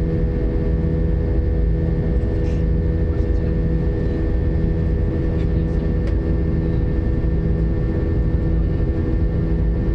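Airbus A320 jet engines and airflow heard inside the passenger cabin in flight: a steady, loud drone with a deep rumble and several held tones, and a low hum that throbs about once a second.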